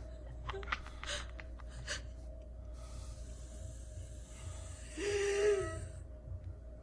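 Heavy, breathy gasping with a short moaning voice toward the end, preceded by a few faint clicks.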